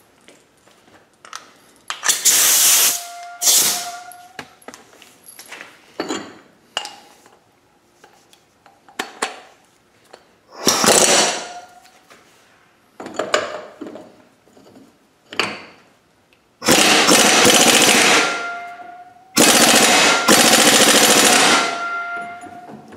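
Impact wrench hammering on an NV4500 transmission's 5th gear nut through a homemade socket, in repeated rattling bursts, the last two lasting about two seconds each: the nut is stubborn, held fast by a lot of Loctite.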